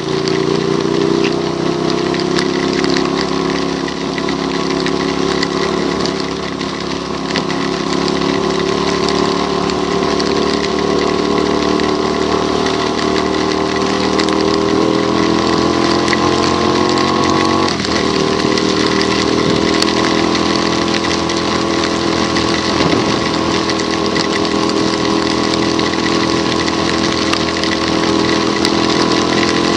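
A vehicle's engine running on the road, its pitch slowly rising as it picks up speed, with a brief dip about eighteen seconds in. A steady hiss of water and tyre spray on the wet road runs under it.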